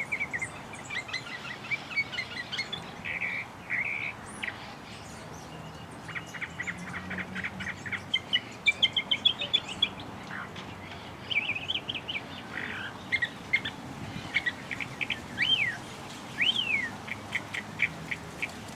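Small birds chirping and twittering: quick runs of short high notes, with two longer notes near the end that rise and then fall.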